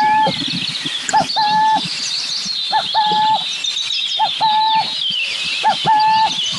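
Burrowing owl giving its two-note 'coo-cooo' song, a short rising note followed by a longer level one, repeated about every one and a half seconds, five times in all. Many high, thin chirps from other birds run behind it.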